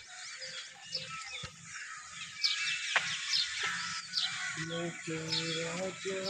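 Many small birds chirping in quick, short falling calls. About two-thirds of the way in, a steady low droning tone starts up and holds, broken twice for a moment.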